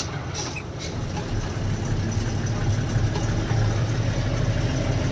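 Loaded truck's diesel engine running on the highway, heard from inside the cab as a steady low drone with road noise, growing a little louder after about a second.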